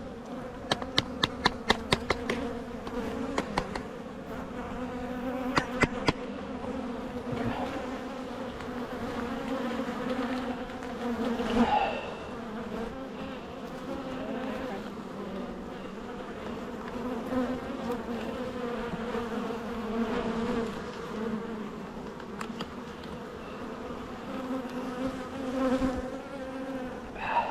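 Honeybees buzzing steadily in large numbers around an open hive. A quick run of sharp taps sounds about a second in, and three more follow a few seconds later.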